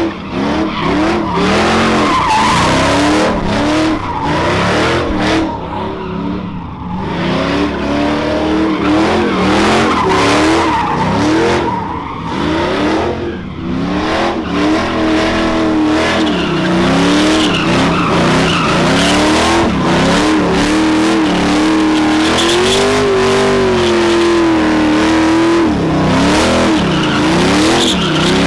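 Truck engine revved hard again and again, the pitch climbing and dropping many times, then held high and steady for several seconds in the second half. Tyre squeal and screech from a burnout run under it.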